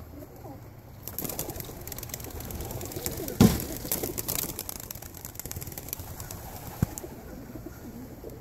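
Tippler pigeons cooing, with several seconds of quick clattering of wings and knocks; the loudest is a thump about three and a half seconds in, and a sharp knock comes near the end.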